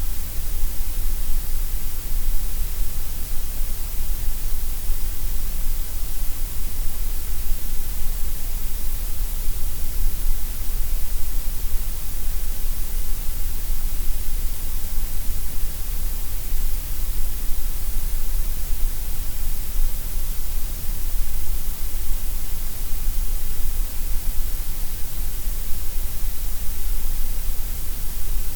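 Gray noise: a steady, unbroken synthetic hiss, stronger in the deep rumble and the top hiss than in the middle range.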